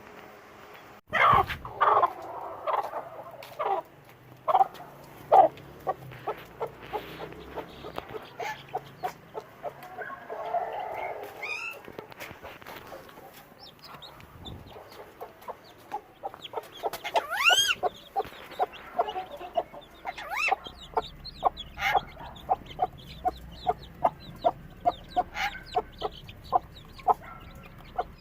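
Budgerigar chicks calling: many short, repeated chirping calls, starting loud about a second in, with a few longer rising calls partway through and then a quick run of short calls.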